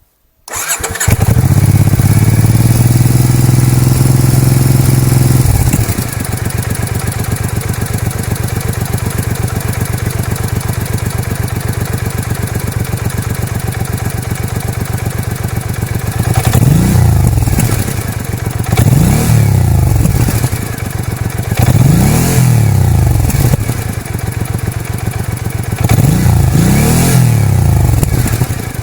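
2015 Triumph Speedmaster's air-cooled 865 cc parallel-twin engine through its original exhausts. It starts about half a second in and runs at a fast idle for about five seconds. It then settles to a lower idle and, in the last twelve seconds, is revved in several short throttle blips.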